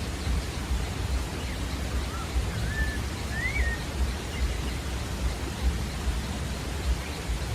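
Pale-breasted thrush (sabiá-da-várzea) giving a few faint, short whistled notes that slide up and down, about two to four seconds in, over a steady hiss and low rumble.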